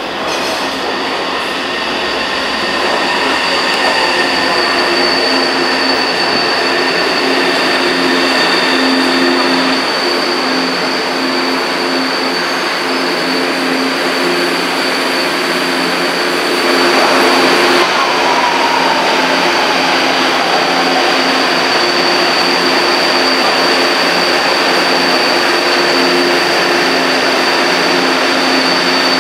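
Electric passenger train running at a station platform: a continuous rumble with a steady high-pitched whine. A tone falls in pitch about three seconds in and again about eighteen seconds in, and the whole sound grows louder about seventeen seconds in.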